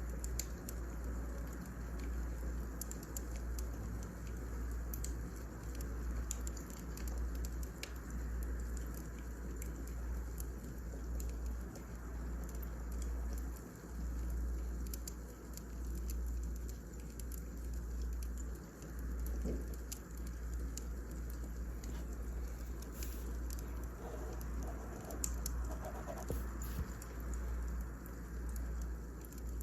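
Wood fire crackling, with irregular sharp pops and ticks over a steady low rumble, and a few brief squeaks near the end.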